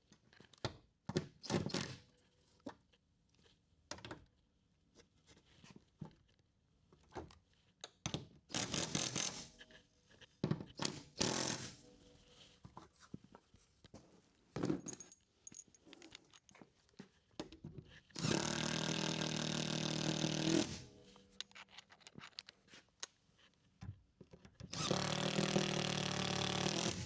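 Scattered knocks and clicks of handling the mounting bracket and tools. Then a power driver runs twice, each time for about two and a half seconds, driving the screws that fix the inverter bracket to the wall.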